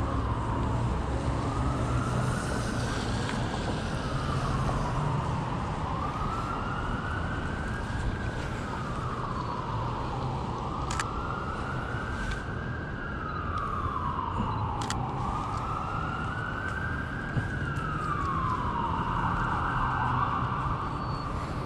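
Emergency vehicle siren in a slow wail, rising and falling about every four to five seconds, over low street traffic rumble. Two sharp clicks come through about halfway.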